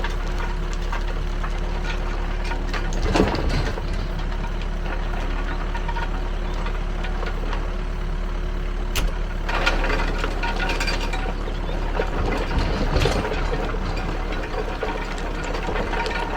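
Backhoe loader's diesel engine running steadily, with short bursts of clattering and rattling a few seconds in and twice more later on.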